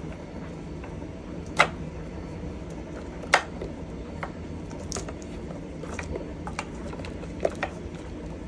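Sharp clicks and knocks, about eight spread irregularly, as parts and wiring are handled inside an electric scooter's battery compartment; the two loudest come about a second and a half in and about three and a half seconds in.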